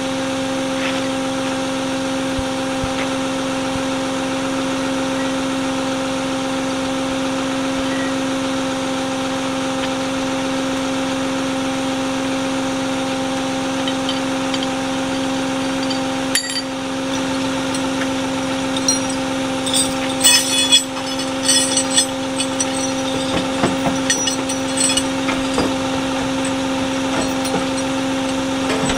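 A vehicle engine running steadily with an even drone. In the second half there are irregular metallic clinks and rattles.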